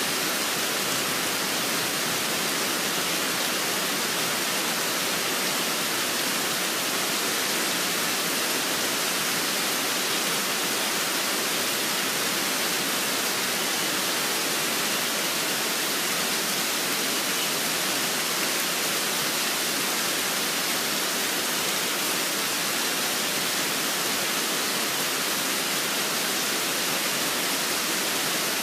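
Steady rainfall, a constant even hiss with no change in level.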